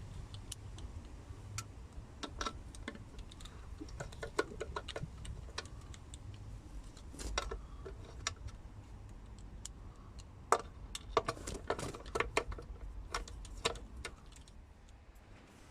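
Irregular light metallic clicks and taps of hand tools being worked, over a low background hum.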